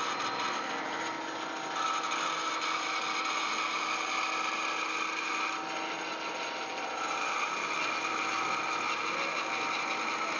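A woodworking power tool running steadily as it cuts a curved table leg, its pitch stepping up and down as the cut changes.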